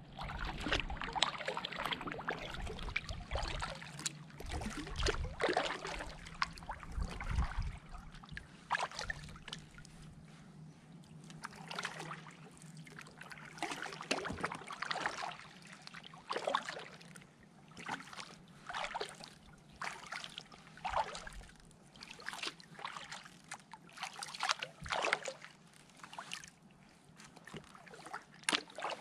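Kayak paddle blades dipping and pulling through creek water, a splashy swish about every second or so.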